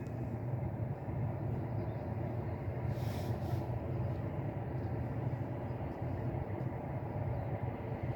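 Steady low engine rumble, with a brief hiss about three seconds in.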